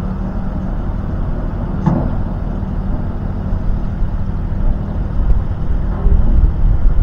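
Tractor engine running steadily, with a short knock about two seconds in; the engine grows louder about six seconds in.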